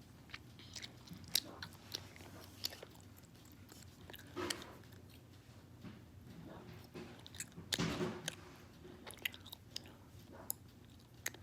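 Scattered small clicks and taps from fidget spinners being handled on a hard surface, with two brief rustling swells, one about four seconds in and a louder one about eight seconds in.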